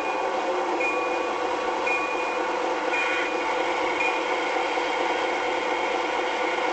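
A train rumbling steadily. A bell dings about once a second through the first four seconds, then stops.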